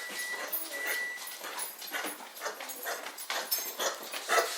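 Golden Retriever mix whimpering, a thin high whine that fades out a second or so in, among repeated short, sharp noises. It is the distress of a dog with a severe heartworm infection.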